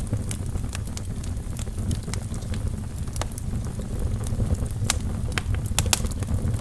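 Wood fire burning in a fireplace, with a steady low rumble of flames and frequent sharp, irregular crackles and pops from the logs. The crackles come thicker near the end.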